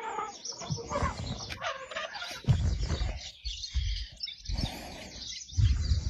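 Birds chirping, with irregular low rumbles breaking in over them, the loudest about two and a half seconds in and near the end.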